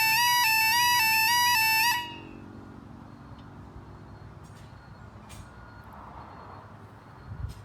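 Level crossing warning alarm sounding a two-tone warble, stepping back and forth between two pitches about twice a second, then cutting off suddenly about two seconds in. Only low background sound follows, with a short low thump near the end.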